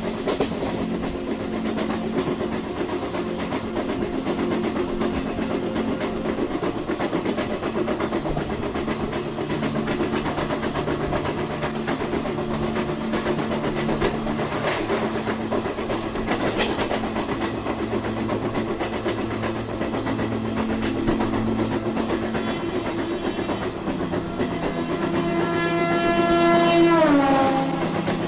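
Train running on the rails with steady track noise and occasional knocks. Near the end a train horn sounds, growing louder and then dropping in pitch as it ends.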